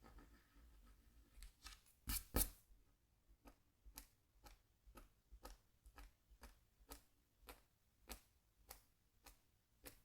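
Scratch tool scraping lines into a scratchboard's coated surface: short, crisp scratches at about two a second, with two louder strokes about two seconds in.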